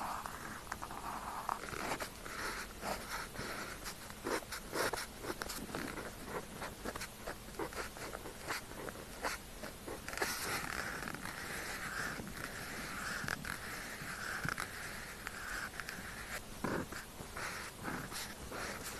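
Pen tip scratching across paper in quick strokes and taps, with a longer run of smooth continuous strokes about halfway through.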